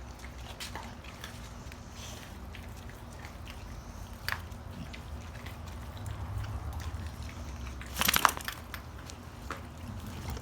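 Dogs chewing and crunching raw chicken pieces with bone, in scattered short cracks over a low steady hum. A short, louder burst of rapid cracking comes about eight seconds in.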